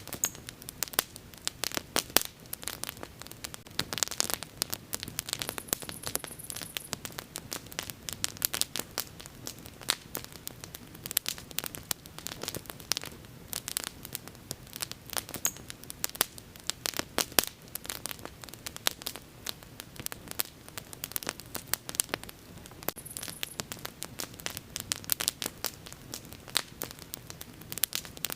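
Wood fire burning with dense, irregular crackles and pops over a low steady hiss.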